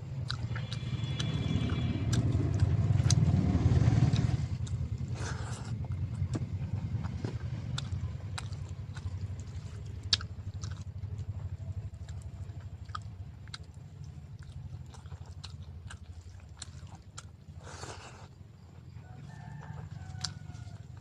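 Close-miked eating: wet mouth clicks and small crunches of someone chewing a mouthful of rice and fried food, recurring every second or so, over a low rumble that is loudest in the first four seconds.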